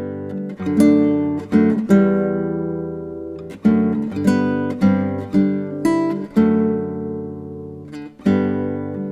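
Acoustic guitar music: strummed chords struck one after another, each left to ring and fade before the next, with a quicker run of strums in the middle and longer ringing chords near the start and end.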